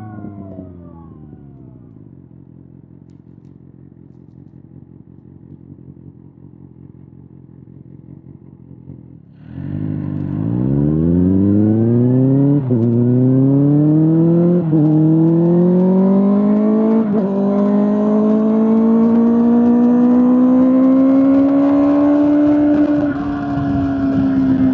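Kawasaki ZX-6R inline-four through an SC-Project SC-1R exhaust. For the first nine seconds or so it runs quietly, its pitch dropping at the start. About ten seconds in it suddenly turns loud and accelerates hard, the pitch climbing through three quick gear changes before holding high near the end.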